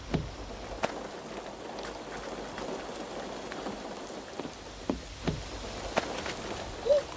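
Steady heavy rain falling, with a few sharper single drips or taps scattered through it.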